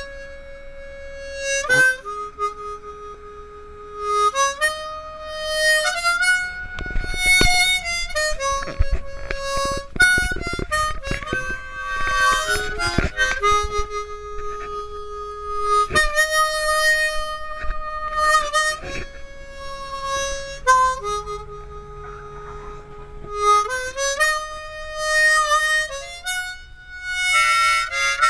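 Music: a harmonica playing long held notes that step and slide between pitches.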